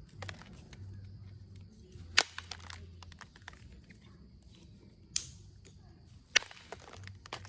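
Billet striking a chert preform in percussion flintknapping to knock away the rough stone: three sharp cracks, about two, five and six seconds in, with lighter clicks and taps between.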